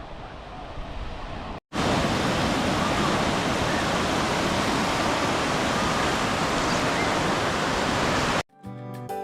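Breaking ocean surf at a sandy beach: a loud, steady rush of waves after a sudden cut from a quieter stretch of surf and wind. Near the end it cuts off and piano music starts.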